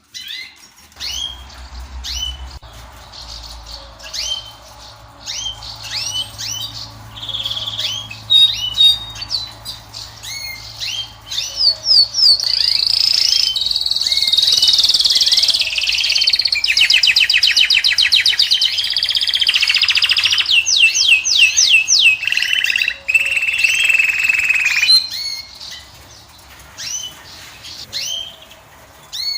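European (Moroccan) goldfinch singing: short rising call notes repeated about once a second, then a loud, fast song with rapid trills for about twelve seconds, before it drops back to scattered calls near the end.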